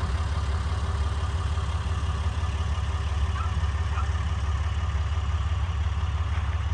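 Pickup truck's engine running steadily: a continuous low rumble with road or engine noise spread above it, unchanging throughout.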